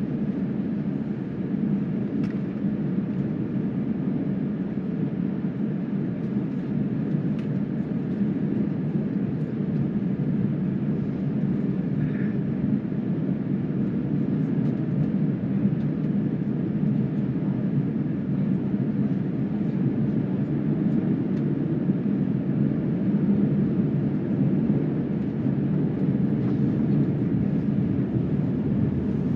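Steady low rumble of a jet airliner heard inside the passenger cabin, engines running on the ground ahead of takeoff.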